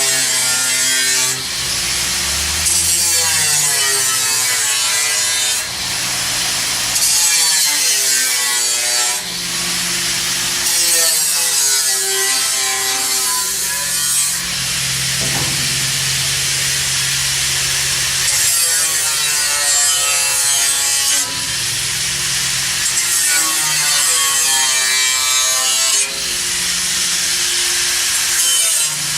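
A saw cutting through material in repeated strokes of about one and a half to two seconds each. The hiss of the cut swells and falls with every stroke, and the pitch rises and dips as it goes.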